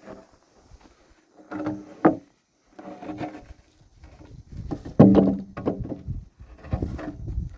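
Wood creaking and scraping in several irregular strokes, with a sharp knock about two seconds in, as timber is worked.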